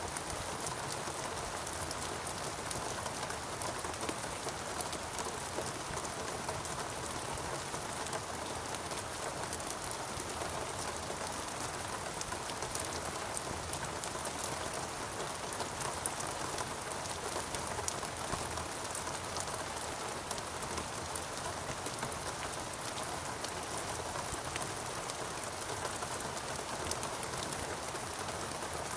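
Steady rainforest rain, a dense even patter of many drops falling on foliage and surfaces.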